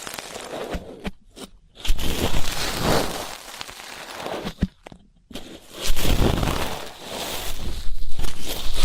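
Earpick scraping and crunching against an ASMR microphone's ear, in irregular scratchy strokes broken by two short pauses. The strokes are louder near the end.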